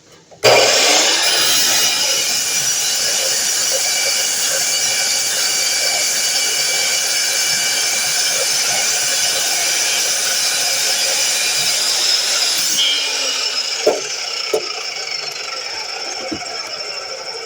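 DeWalt miter saw motor switching on suddenly and running at full speed with a high whine for about twelve seconds. It is then switched off and winds down gradually, with a couple of short knocks as it slows.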